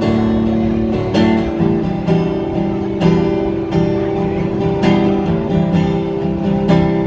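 Acoustic guitar strumming sustained chords, with a strum stroke about every half second to second, and no singing.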